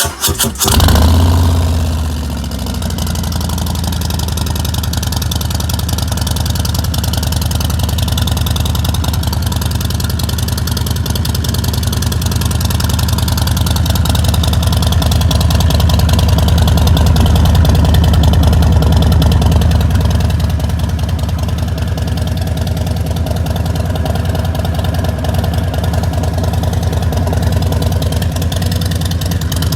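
Motorcycle engine with a Vance & Hines slip-on exhaust cranking and catching at once, surging about a second in, then settling into a steady, loud idle through the aftermarket pipes.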